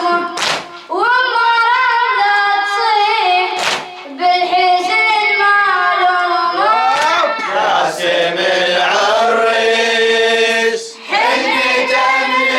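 A young reciter's voice singing a Shia Muharram lament (latmiya) in long, gliding melismatic phrases. Two sharp slaps sound, one near the start and one about three and a half seconds in.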